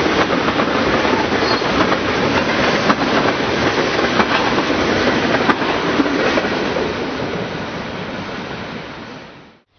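Freight train cars rolling past, a steady rumble of wheels on rail with clickety-clack over the rail joints, fading out near the end.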